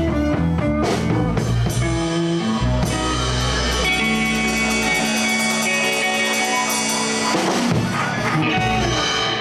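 Live blues band with electric guitars, bass guitar and drums playing the closing bars of a song after the last vocal line. A chord is held ringing for several seconds in the middle, then a few final notes follow.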